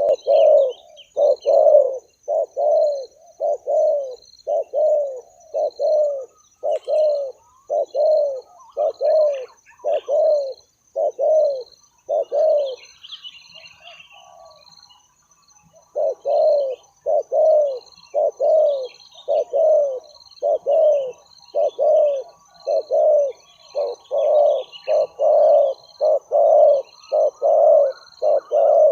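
Spotted doves cooing: a regular run of short coo notes, a little more than one a second, that breaks off for about three seconds in the middle and then resumes.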